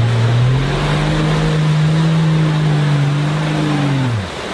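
Engine of a lifted Toyota off-road SUV on oversized mud tyres, revving up in the first second, holding steady at high revs, then dropping off at about four seconds. A constant rushing noise runs under it.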